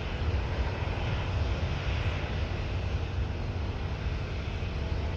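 Jet airliner engines running, a steady low rumble with a hiss above it.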